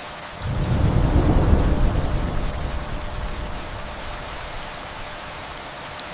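Steady rain with a roll of distant thunder that breaks in about half a second in, swells for a second or so and then rumbles away slowly, over a few sharp drips.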